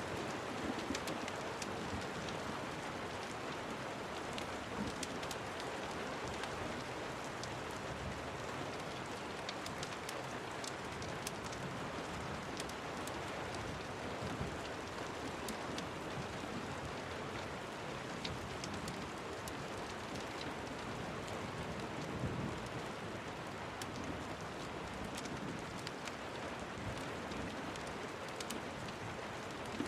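Steady rain falling, an even hiss with many small sharp ticks scattered throughout.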